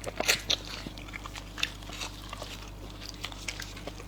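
A person eating close to the microphone: a few crunchy bites near the start, then softer, scattered chewing clicks.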